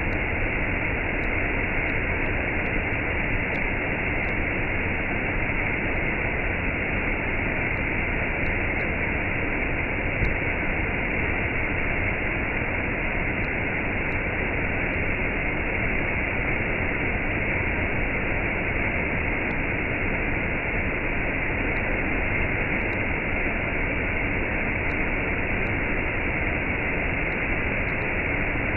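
Waterfall and cascade: a steady, even rush of falling water with no let-up, somewhat dull, lacking any high hiss.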